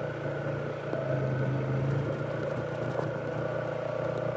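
Fuel-injected Polaris ATV engine running steadily with an even hum.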